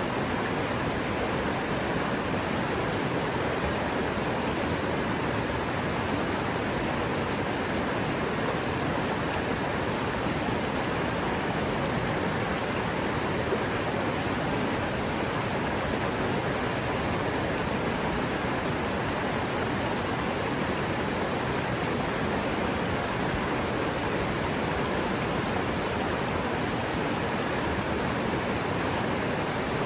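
Forest river water running over rocks, a steady unbroken rush.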